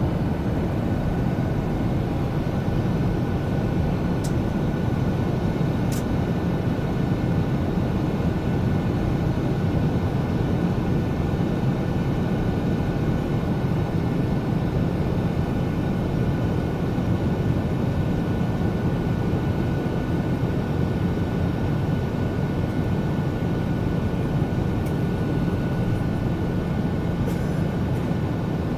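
Steady engine and air noise inside an airliner's passenger cabin on approach to landing, with a faint steady whine above it.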